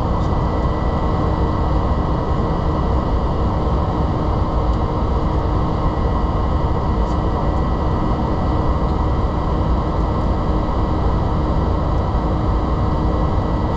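Boeing 767-300 jet engines and airflow heard from inside the cabin during departure: a loud, steady rushing noise with a thin steady whine that does not change in pitch.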